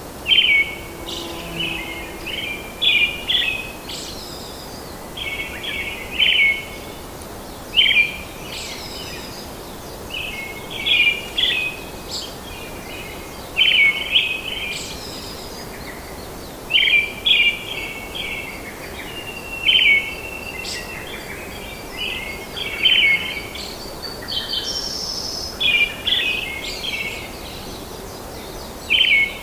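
Birdsong: short chirping phrases repeated every second or two, over a steady background hiss of forest ambience.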